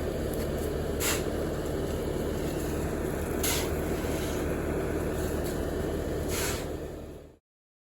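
A machine engine running steadily, with three short hissing bursts, then fading out near the end.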